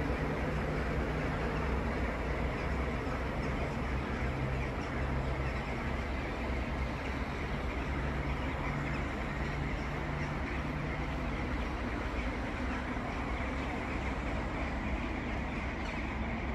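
Stationary trains standing at the platform, idling with a steady low mechanical hum. One droning tone in the hum drops out about two-thirds of the way through.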